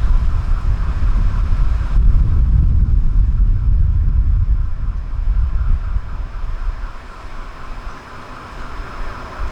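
A train running by: a heavy low rumble with a steady higher hum above it, easing off after about six seconds.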